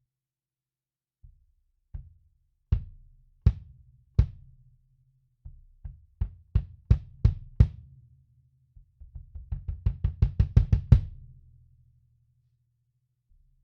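A 22-inch kick drum with an Evans EMAD2 batter head struck by the pedal beater, each hit a short, damped low thump with a beater click. There are spaced single strokes, then a steadier pattern of about three a second, and then a fast run of about five a second near the end that ends on a louder hit.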